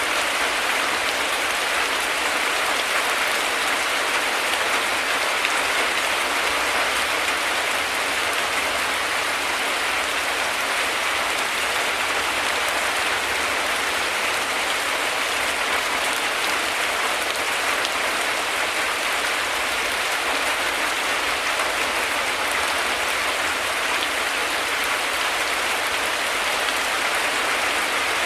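Heavy rain falling steadily, an even, unbroken hiss of drops without any thunder.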